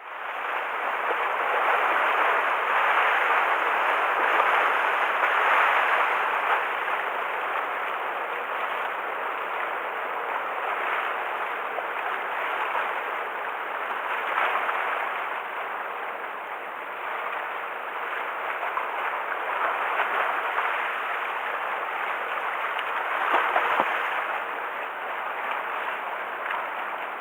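Rough sea waves washing and breaking against the shore, swelling and easing every few seconds; the water is stirred up by an approaching typhoon.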